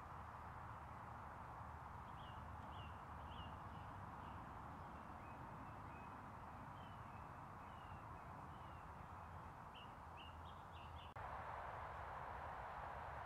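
Faint outdoor background noise with birds calling in short, scattered chirps from about two seconds in until near the end, where the background steps up abruptly at a cut.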